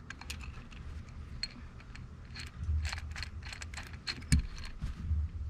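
Small metallic clicks and rattles from a hand rivet nut tool as an M6 nutsert is screwed onto its threaded mandrel, with irregular light ticks throughout.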